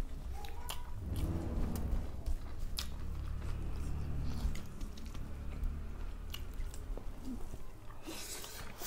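Close-up mouth noises of people chewing a rice meal eaten by hand, with scattered light clicks of fingers and food against steel plates and a short hiss about eight seconds in.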